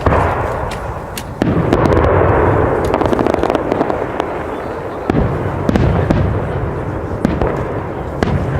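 Fireworks display: a string of loud shell bursts, with a fresh bang near the start, another about a second and a half in, and more at about five, six and seven seconds. A continuous rumble and scattered crackling fill the gaps between them.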